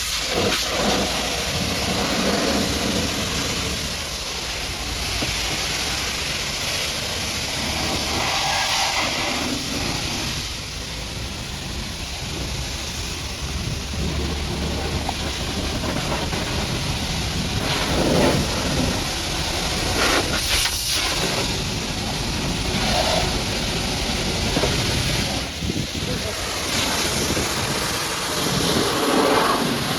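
High-pressure water spray from a pressure washer blasting a muddy truck, a steady rushing hiss that swells and eases as the jet moves over the surfaces.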